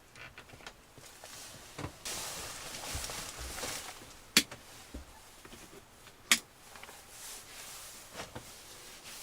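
Stiff electrical switches on an old yacht's switch panel being flicked, giving two sharp clicks about two seconds apart. Fainter clicks and a short spell of hiss come before them.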